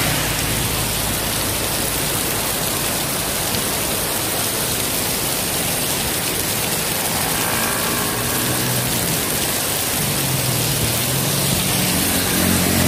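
Heavy tropical downpour: a steady, dense hiss of rain pouring down. In the last few seconds a passing vehicle's engine rises beneath it.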